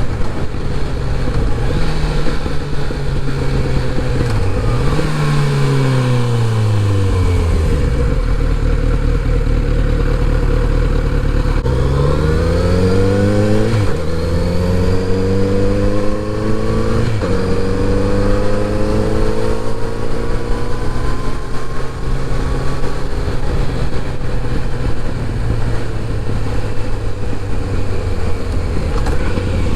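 Kawasaki Z900RS inline-four engine winding down to idle and idling for a few seconds. It then pulls away and accelerates through the gears, with two upshifts in quick succession a little before halfway, and settles into steady cruising.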